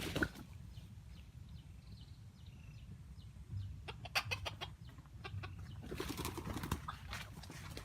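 Wild chicken clucking, with scattered rustles and sharp clicks and a busier noisy stretch about six seconds in.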